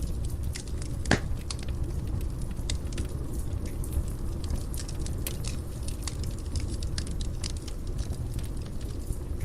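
Wood fire burning in a fireplace: a steady low rumble of flames with frequent small crackles and one louder pop about a second in.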